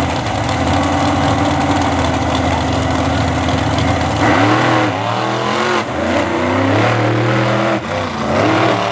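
Monster truck engines running at a steady pitch, then revving hard from about four seconds in. The pitch sweeps up and falls back as the trucks race, with the throttle dropping out briefly twice.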